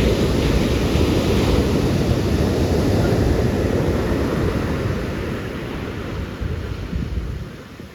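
Ocean surf and wind buffeting the microphone, a loud rumbling rush that eases off near the end.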